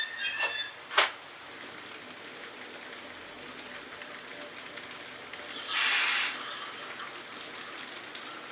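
H0 model railway layout running: a high squeal dies away at the start, a single sharp click comes about a second in, then a faint steady running noise with a short loud hiss around six seconds in.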